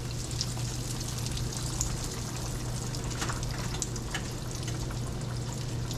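Breaded chicken fried steak frying in hot grease at about 350 degrees: a steady sizzle with scattered small pops and crackles, over a steady low hum.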